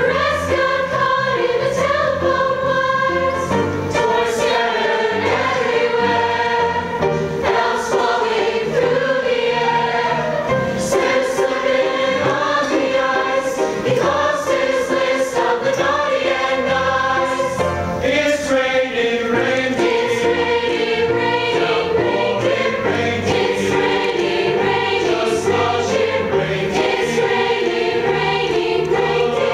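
A high school choir singing a song together.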